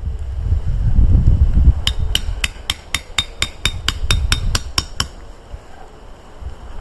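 A hammer driving a metal tent peg: a quick run of about a dozen evenly spaced strikes, roughly four a second, each with a bright metallic ring. A low rumble comes before the strikes begin.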